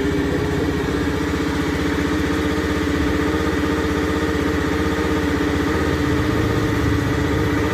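Honda Scoopy scooter's single-cylinder engine running steadily at idle, with a steady drone over its fast even pulsing. This is the odd noise whose cause is being looked for.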